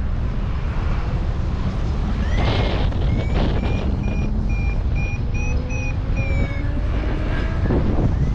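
Strong wind rushing over the microphone, with a paragliding variometer beeping in short, evenly repeated high tones about twice a second, its climb signal while the glider rises in ridge lift.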